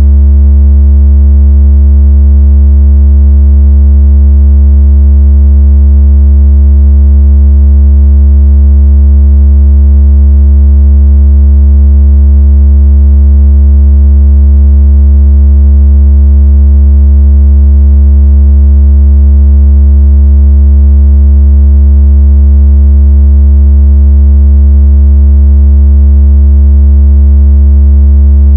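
Loud, steady, deep electronic bass tone with a buzzy stack of overtones, holding one pitch without change. It is a water-out-of-speaker tone, a low vibration meant to shake water out of a phone speaker.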